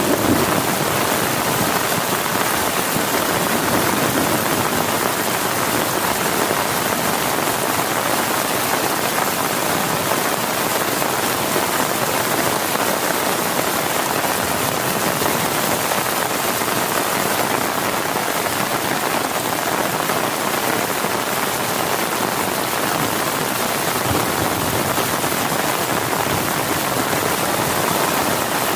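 Heavy rain falling steadily, an even unbroken hiss with no let-up.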